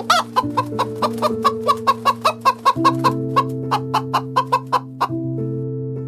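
Chickens clucking in a quick run of short clucks, about four a second, starting with one longer call and stopping about five seconds in. Soft piano music plays under them.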